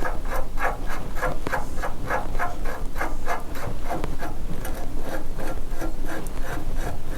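A quick run of light knocks, about three to four a second, as the steering stem and yoke are worked up into the motorcycle's headstock over loose steering-head ball bearings.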